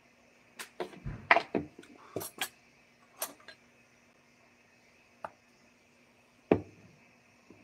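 Hard objects clinking and knocking: a quick run of about eight sharp knocks in the first three and a half seconds, then a light one and a stronger one a little over a second apart near the end, over a faint steady hum.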